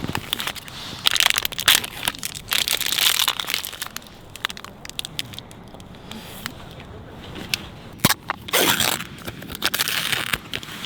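Intermittent crunching and crinkling in irregular bursts with sharp clicks, heaviest in the first few seconds and again near the end.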